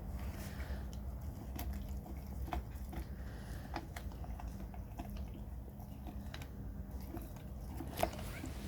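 Perro de Presa Canario chewing a sheep's head: irregular crunches and cracks of bone and gristle, the sharpest crack near the end.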